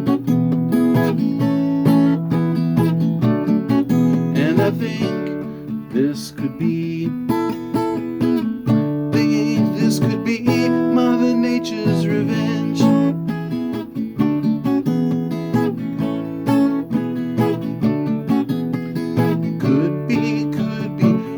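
Acoustic guitar strummed in chords in an instrumental passage of a song, with no singing.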